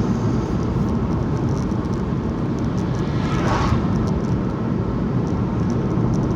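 Steady low road and engine rumble heard from inside a moving car, with a brief rushing swell about three and a half seconds in.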